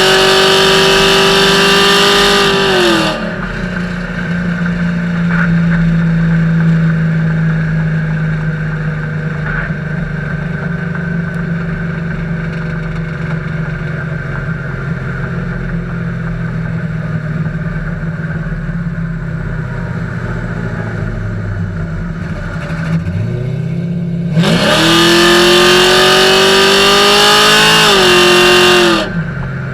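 2000 Camaro SS's LS1 V8 through true dual exhaust with Flowmaster single-chamber mufflers. It is held at high revs, drops to a steady idle about three seconds in, then revs up again, holds for about four seconds and drops back near the end.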